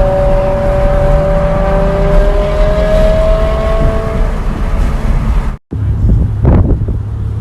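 Car engines running with a loud low rumble and a steady note that rises slowly in pitch. The sound cuts off abruptly about five and a half seconds in, then resumes as a rougher engine rumble with short surges.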